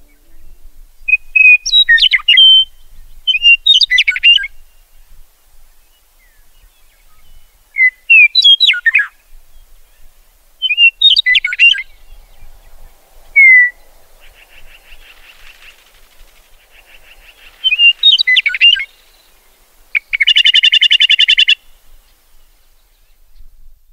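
A small bird calling: short, high chirping phrases every few seconds, with a loud harsh buzzing rattle lasting about a second and a half near the end.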